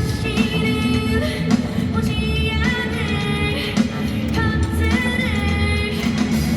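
Live rock band playing: a sung melody line with held and sliding notes over electric guitar, bass and drums.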